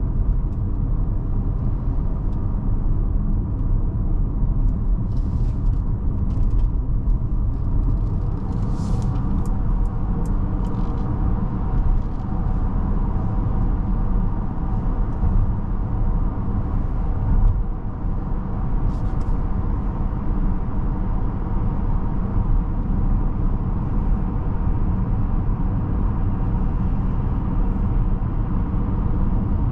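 Steady low road and tyre rumble of a Mercedes-Benz GLB350 on the move, with a few faint clicks scattered through the middle.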